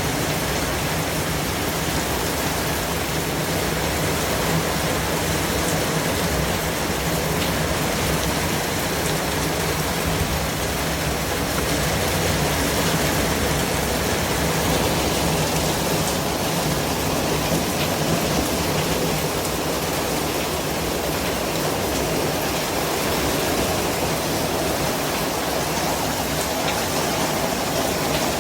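Steady, unbroken hiss of white noise, spread evenly from low to high pitches at a constant loudness.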